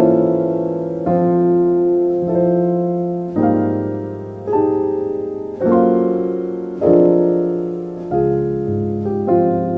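Slow, soft piano music: chords struck about once a second, each left to ring and fade before the next.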